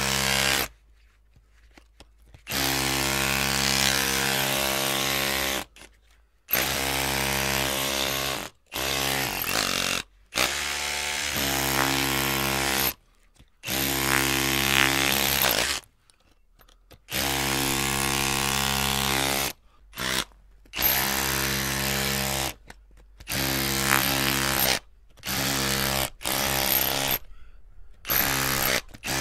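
Electric drill running in repeated bursts of one to three seconds, the trigger pressed and released about a dozen times with short pauses between. Around the middle one run is at a lower, wavering speed.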